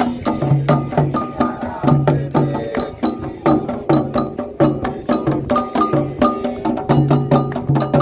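Candomblé toque on atabaque hand drums: a fast, dense rhythm of many strikes a second, with deep open drum tones recurring between sharper high hits.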